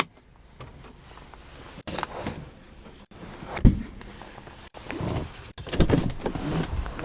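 Mechanical clicks and knocks from a car being handled, with one heavy thump about three and a half seconds in, like a latch or panel shutting.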